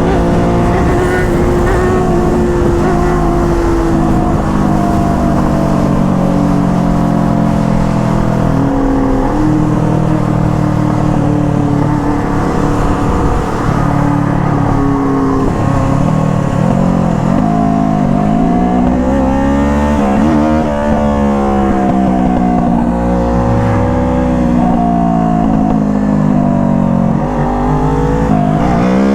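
Sport motorcycle engine under way. Its note holds steady and slowly drops in pitch, then in the last third the revs rise and fall again and again through gear changes.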